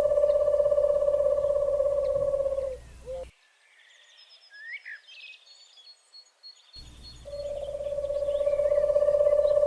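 A loud, steady, fast-pulsing trill, cut off about three seconds in. For the next few seconds there are instead short bird chirps, a quick rising call and a row of high repeated notes, before the trill comes back.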